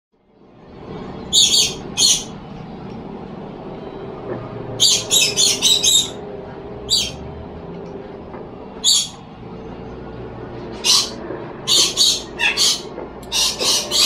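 A bird giving short, sharp, high-pitched chirps, some singly and some in quick runs of four or five, spaced irregularly a second or more apart, over a steady low background hum.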